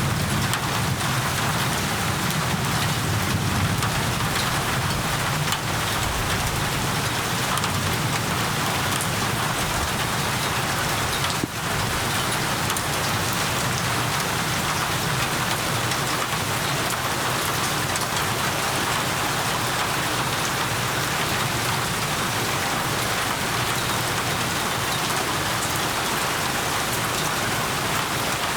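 Steady heavy rain falling on surfaces, a dense, even patter with a low rumble beneath it. The level dips briefly about a third of the way in.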